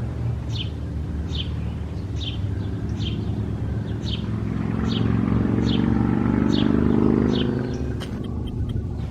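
A bird repeats one short, falling chirp about every three-quarters of a second over a steady low engine hum. A louder vehicle-like rush swells up in the middle and fades again near the end.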